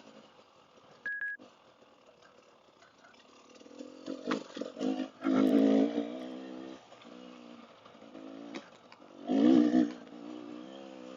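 Dirt bike engine running at low revs, with two loud bursts of throttle, about five and nine seconds in.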